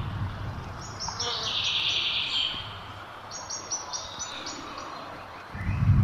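A bird calling outdoors: two runs of rapid, evenly repeated high chirps, one about a second in and one from about three seconds in. A low rumble near the end is the loudest sound.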